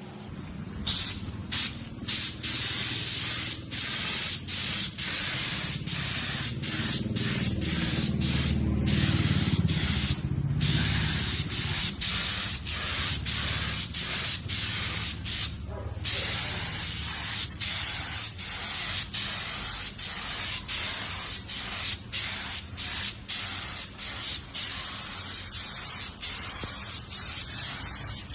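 Compressed-air spray gun hissing in passes, broken by many short gaps as the trigger is let go and pulled again.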